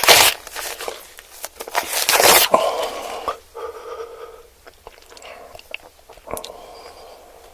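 Close-miked eating: loud crunching bites at the start and again about two seconds in, followed by softer chewing and small mouth clicks.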